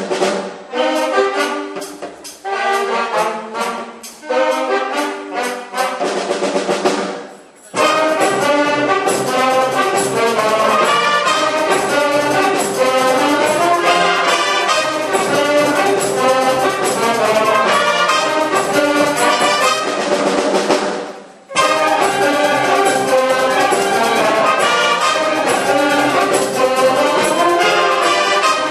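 School marching band playing a brass-led wind band piece: short detached chords for the first several seconds, then after a brief break about eight seconds in the full band plays loudly, stopping short once more about twenty-one seconds in before coming straight back in.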